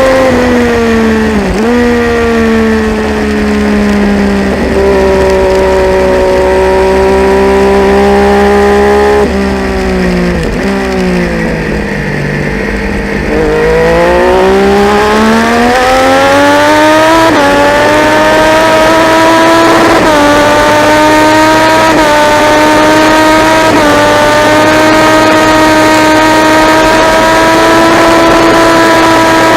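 Triumph Daytona 675's three-cylinder engine heard from the bike. The revs come down to their lowest about twelve seconds in as it slows, then climb hard with several gear changes, each a small drop in pitch, before holding a steady high note.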